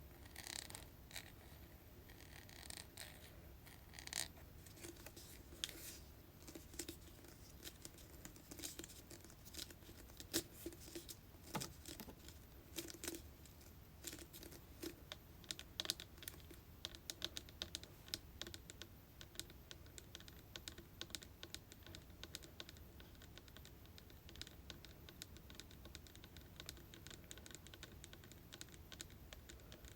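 Tapping on hair product containers: soft, irregular clicks that come quicker and closer together from about halfway through.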